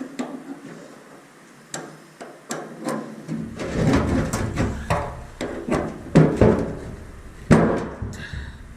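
Metal clinks and sharp knocks from a chain breaker being worked to press a pin out of a link of #80 roller chain. A few scattered clicks at first, then a busy run of knocks from about three and a half seconds in, with the loudest strikes near the end.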